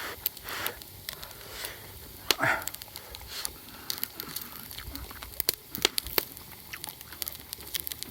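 Wood campfire crackling, with irregular sharp pops and snaps throughout. A short, louder noise about two and a half seconds in.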